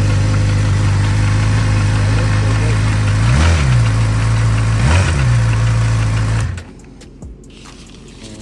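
Motorcycle engine idling steadily, blipped twice with quick revs, then shut off abruptly about six and a half seconds in.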